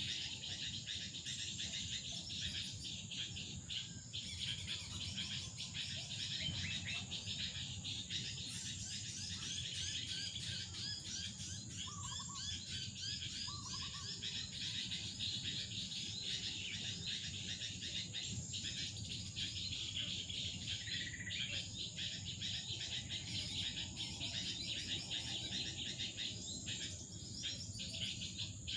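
Many small birds chirping rapidly and continuously, with a steady high-pitched insect drone underneath.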